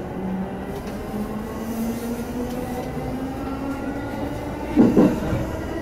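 Electric commuter train heard from inside the car while running: a motor whine slowly rising in pitch over a steady rumble, and two loud knocks from the wheels over a rail joint about five seconds in.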